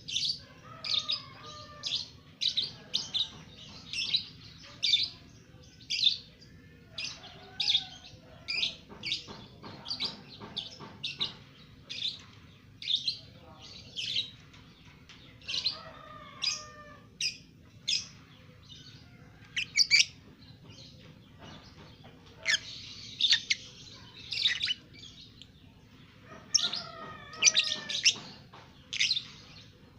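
A two-month-old lovebird chirping: a steady series of short, sharp, high chirps, about two a second, with a few softer warbling notes in between.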